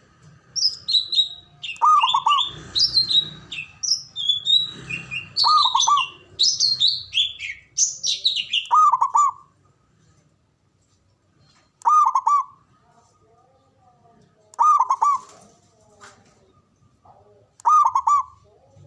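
Zebra dove (Javanese perkutut) cooing: a short, bubbly coo phrase repeated about every three seconds. Other small birds chirp rapidly over it in the first half, then fall away, leaving the dove's calls alone.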